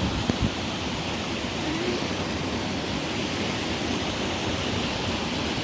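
Small waterfall, a steady rush of falling water.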